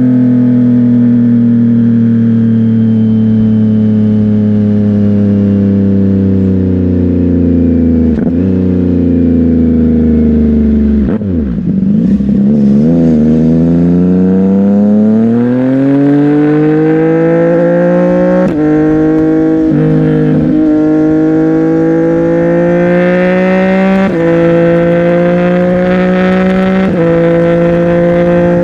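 CFMOTO 675NK's three-cylinder engine through a Burnout titanium aftermarket exhaust, heard on the move. Its pitch falls steadily as the bike slows for about ten seconds, then it pulls away and climbs, with brief breaks where gears are changed.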